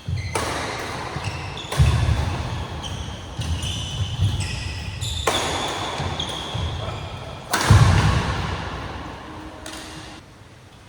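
Sports shoes squeaking on an indoor court floor and feet thudding during badminton play. The heaviest thuds come about two seconds in and about eight seconds in, each followed by a noisy swell.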